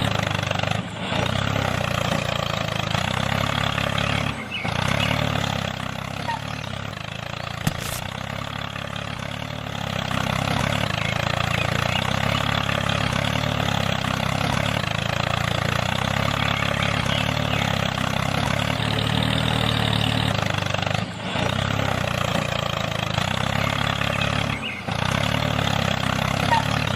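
Small motor of a homemade mini tractor model running steadily, with a few brief breaks.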